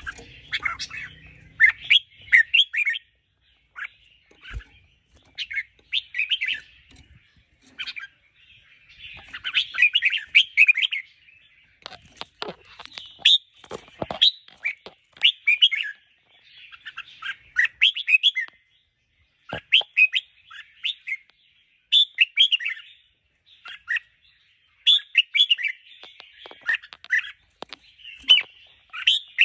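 Red-whiskered bulbul singing: short, bright warbled phrases repeated every second or two, with brief pauses between them.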